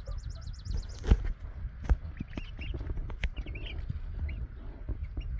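Young chickens peeping with many short, soft chirps, broken by three sharp knocks or bumps at about one, two and three seconds in.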